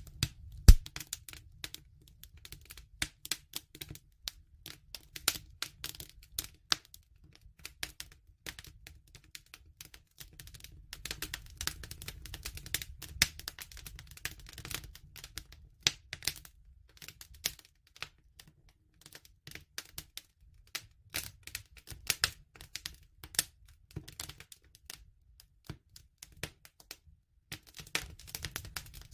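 Wood fire crackling: irregular sharp snaps and pops over a low steady rumble, with one loud pop about a second in.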